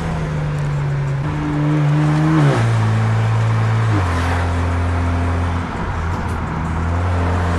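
Turbocharged car engine pulling under acceleration. Its pitch climbs a little, then drops twice in steps, about two and a half and four seconds in, as the gears change up, and then it holds a steady lower drone.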